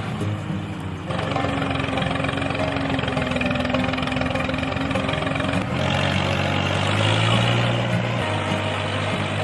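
An engine running steadily with a low hum. The sound changes abruptly about a second in and again a little before six seconds in.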